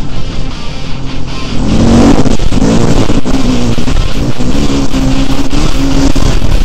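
Dirt bike engine revving up and down through throttle changes, loud and close as heard on a helmet camera, with background music under it.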